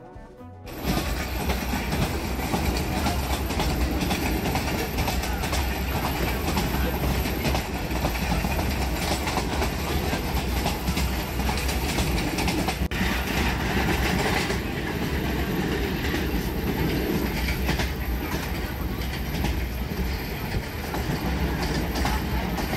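Fareed Express passenger train running along the track: a steady rail noise with a strong low rumble that starts about a second in.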